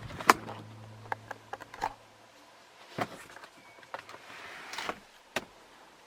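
Porsche 911 electric passenger seat motor running for about two seconds with a steady low hum, starting with a sharp click of the switch. Several more clicks and a brief rustle follow.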